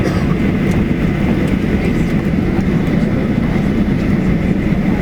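Steady low rumble inside an airliner cabin as the plane rolls on the ground after landing: engine and wheel noise, with a faint steady high whine.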